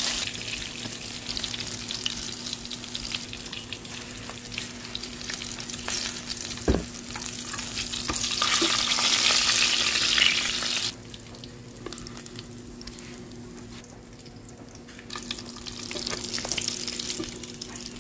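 Dried fish (bulad) frying in hot oil in a pan: a continuous sizzle and crackle, which swells loudest for a couple of seconds around the middle and then drops back quieter. A single sharp knock about seven seconds in.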